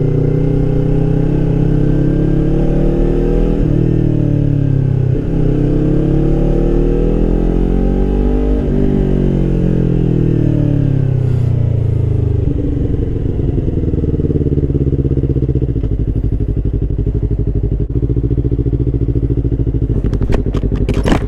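Yamaha R3's 321 cc parallel-twin engine running through an aftermarket Akrapovič slip-on exhaust with no emissions control. The revs rise and fall slowly over the first half, then the engine settles into a steady idle, with a few sharp ticks near the end.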